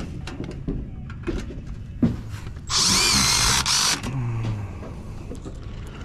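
A cordless power driver runs once for about a second, with a wavering whine, among scattered clicks and knocks of work on the ductwork.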